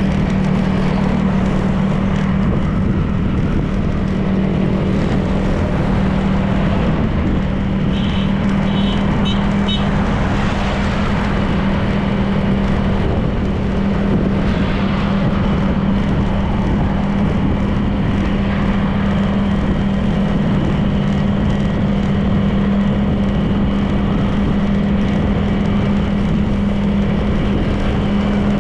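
Honda PCX 160 scooter's single-cylinder engine running at a steady cruising speed, with wind and road noise. A few quick high-pitched beeps come about eight seconds in.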